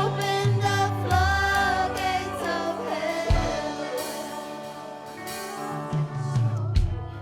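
Live worship music: a band with bass and drums accompanying singers, whose voices carry long held notes and fade out after about five seconds while the instruments play on.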